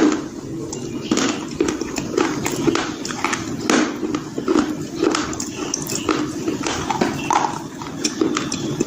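Close-up crunching and chewing of slate bars (slate pencils), with irregular sharp crunches, a couple each second.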